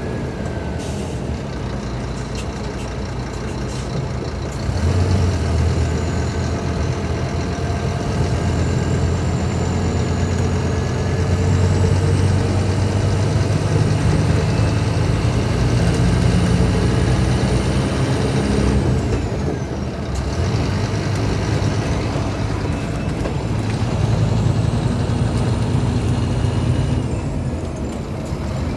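Scania K310IB bus engine running under load, with a high whine rising and falling above it. It pulls harder about five seconds in, eases off briefly around twenty seconds in, then pulls again.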